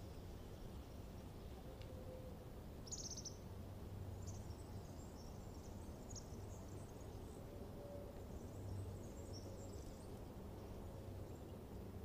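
Faint outdoor ambience: a steady low hum with small birds chirping every so often.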